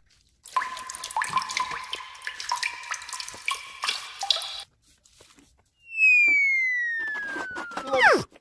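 Water running and dripping, a busy splashing with many small drips, for about four seconds. Then, after a short gap, a single loud whistle-like tone slides steadily downward for about two seconds and drops away sharply at the end.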